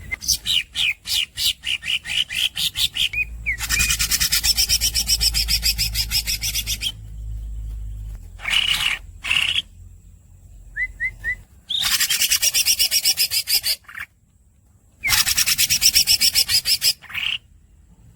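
Cucak ijo (green leafbird) singing. It gives runs of quick rising chirps, about eight a second, broken by three long, dense rolling trills of two to three seconds each: the squeaks and long rolls of its song.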